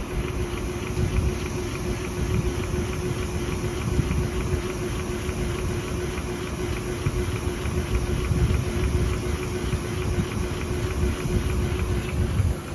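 Insulation-tube inserting machine running: a steady mechanical hum with a low noise and one held tone. The tone cuts off near the end and the level drops.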